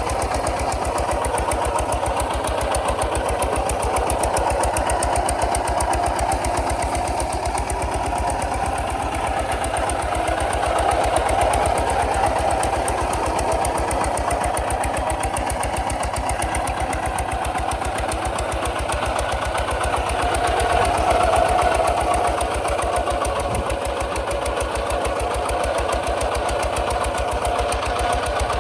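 Kubota RT 140 DI single-cylinder diesel engine running steadily with a fast, even firing beat, getting slightly louder twice along the way.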